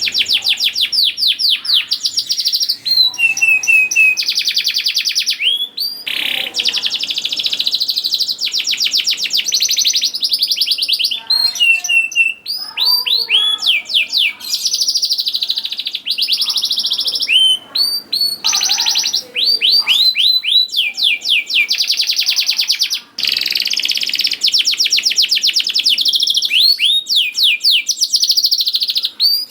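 Domestic canary singing nonstop: long, very rapid trills of repeated notes, broken by short slurred rising chirps and only brief pauses.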